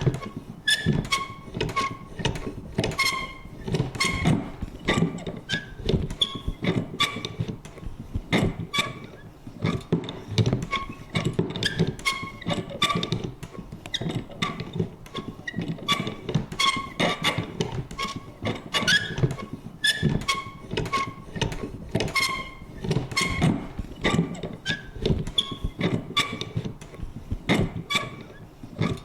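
Vintage paper punch worked over and over: irregular clacks and thunks, several a second, many with a short squeaky creak.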